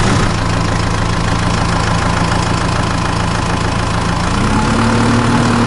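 Vehicle engine idling steadily, its pitch stepping up slightly about four and a half seconds in.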